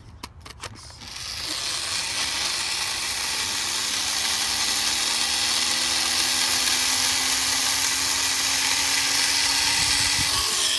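Air Hogs E-Charger micro plane's small electric motor and propeller starting after a few clicks, then running steadily with a high buzzing whine whose pitch sags slowly.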